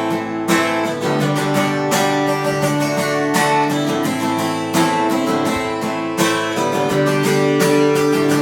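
Acoustic guitar strummed in a steady rhythm, chords ringing between vocal lines of a song.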